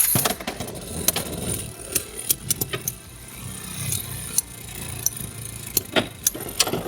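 Beyblades launched with ripcord launchers into a plastic stadium, a loud rip right at the start, then the tops spinning with a steady whir and sharp clicks as they knock against each other and the stadium wall.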